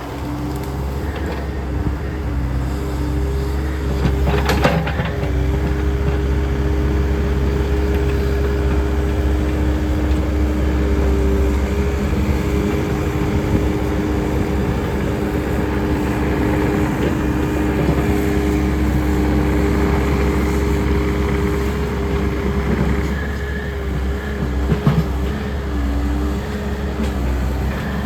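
Takeuchi machine's diesel engine running steadily under load, with a steady whine over the engine hum. Sharp cracks come about four seconds in and again near the end.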